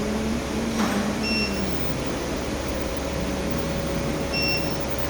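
Steady electrical-equipment hum with a click about a second in, then two short high electronic beeps about three seconds apart.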